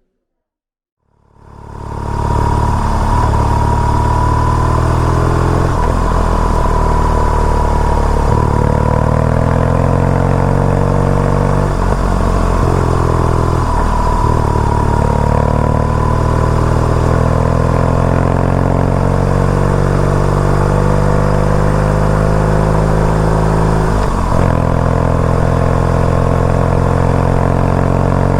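BMW R nineT's boxer twin engine running under way, pulling up through the gears. The pitch climbs, then drops back at each shift: several shifts in the first half and one more near the end. It fades in after about a second of silence.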